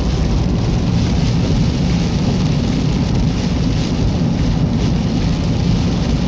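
Steady noise of a car driving on a wet highway in heavy rain: a low rumble of road and tyres with rain on the car.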